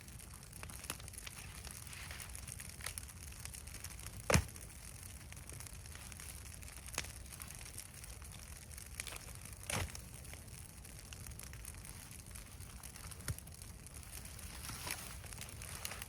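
Burning brush pile crackling, with scattered sharp pops; the loudest come a little over four seconds in and just under ten seconds in.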